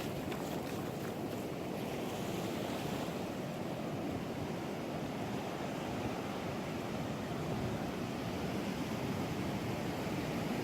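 Ocean surf breaking and washing on the shore as a steady rushing, with some wind on the microphone in the first couple of seconds.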